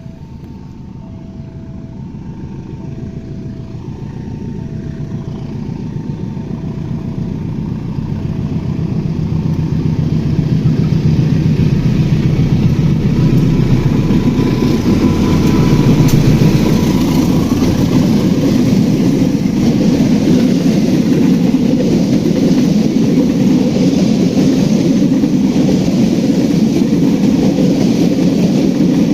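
A CC 201 diesel-electric locomotive and its passenger train approach and pass, growing steadily louder for about ten seconds into a steady heavy rumble of engine and wheels on rail. In the first few seconds a two-note warning chime repeats about once a second and fades out.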